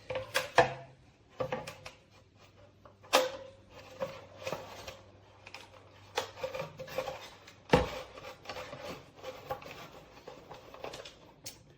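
Handling noises from fitting a replacement dust bag into the bag compartment of a Kenmore bagged upright vacuum: irregular plastic clicks and knocks with rubbing and rustling, and a few sharper knocks among them.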